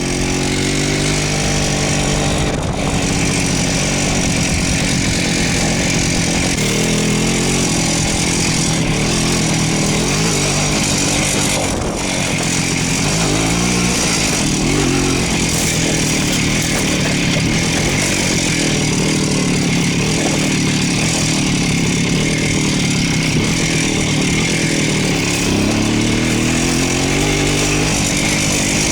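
Voskhod two-stroke single-cylinder motorcycle engine running under way, its pitch rising and falling several times as the rider opens and eases the throttle, over a steady rushing noise.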